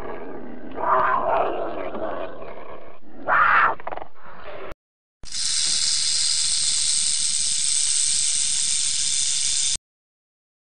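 A cougar's calls, loudest about a second in and again about three and a half seconds in. After a short break, a snake hisses steadily for about four and a half seconds and cuts off suddenly.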